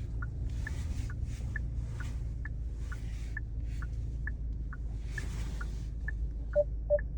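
Inside a car's cabin while parking: a steady low engine and road rumble with a regular ticking about twice a second. Near the end, a car's parking sensor starts beeping in quick, repeated beeps as the car closes on an obstacle.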